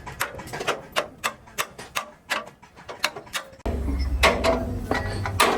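A run of sharp taps and knocks, about three a second. About two-thirds of the way through, a steady low hum starts suddenly, with more knocks over it.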